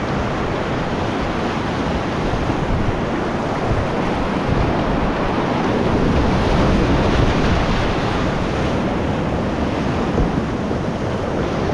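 Steady rushing of whitewater rapids on a creek, with some wind noise on the microphone.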